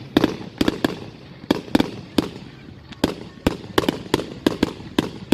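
Fireworks going off: a quick, irregular string of sharp bangs, about three a second.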